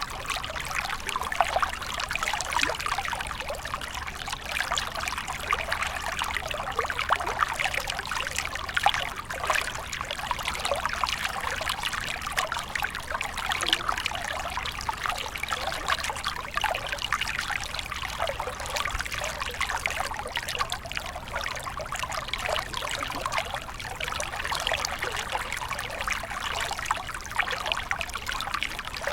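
A small stream flowing steadily, water trickling and splashing over stones in a continuous babble.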